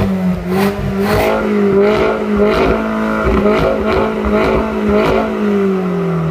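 MINI John Cooper Works turbocharged four-cylinder engine through its sport exhaust, revved and held at high revs, with sharp cracks from the exhaust. The revs drop away near the end.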